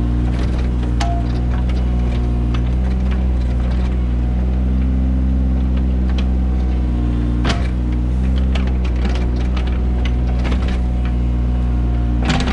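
Mini excavator engine running steadily under working load, with occasional sharp knocks and clanks from the digging gear.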